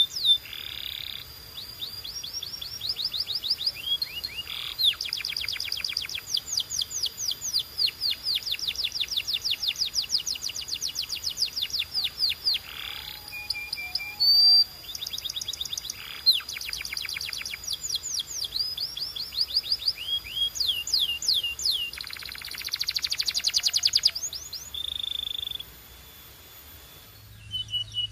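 Canary singing: long trills of rapid, evenly repeated falling notes, run one after another with short breaks, pausing briefly near the end.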